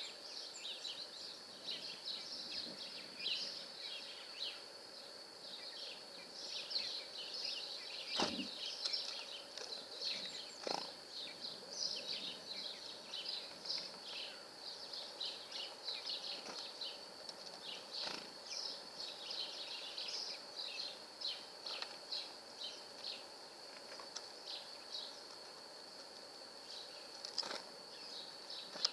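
Small birds chirping and twittering continuously, many short high chirps overlapping, with one sharp knock about eight seconds in.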